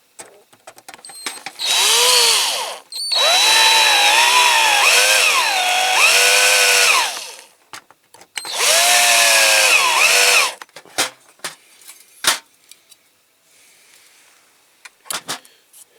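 Cordless drill drilling out a rivet on a diecast toy model. It runs in three bursts, the second the longest, its whine rising and falling in pitch as the trigger speed changes, followed by a few light clicks.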